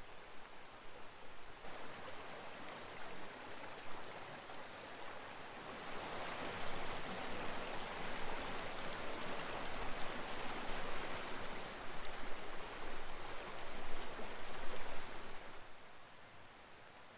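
Steady rushing of a river's flowing water, stepping louder about six seconds in and falling away near the end.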